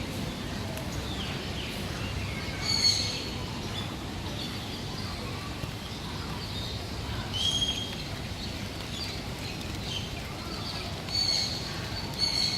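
Birds calling in an aviary: four short, sharp calls ring out a few seconds apart, with softer chirps in between over a steady low background rumble.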